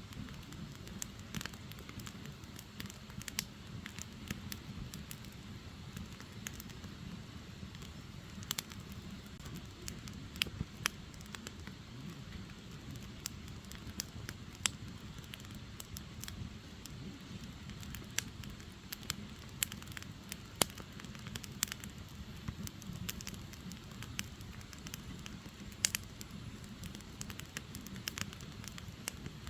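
Firewood burning: irregular sharp crackles and pops, a few louder than the rest, over a low steady rumble.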